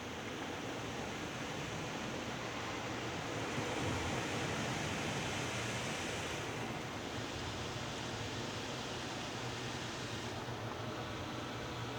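Automatic car wash spraying water over the car: a steady rushing hiss that swells about four seconds in and changes character twice as the spray stages shift.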